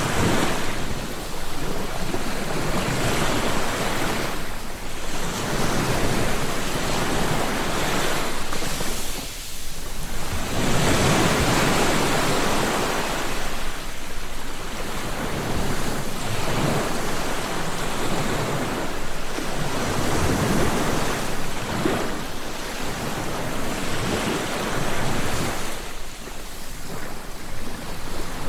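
Ocean waves breaking and washing on a shore, swelling and easing in surges every few seconds, with some wind noise.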